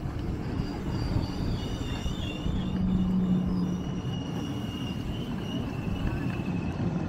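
A train moving through the station: a steady low rumble with thin, high-pitched squealing tones over it, and a brief low hum partway through.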